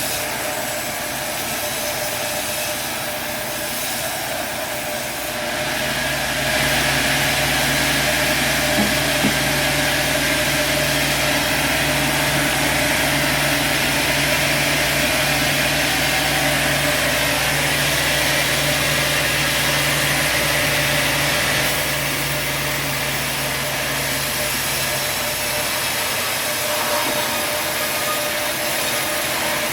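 Sawmill machinery running: steady saw and motor noise that grows louder, with a deeper hum coming in, about six seconds in, then eases back down after about twenty seconds.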